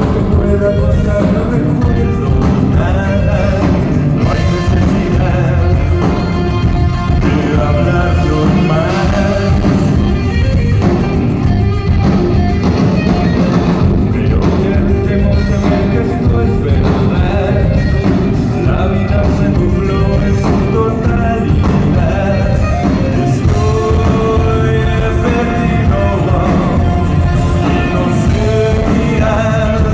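Rock music with a distorted electric guitar and a singing voice, playing continuously and loud.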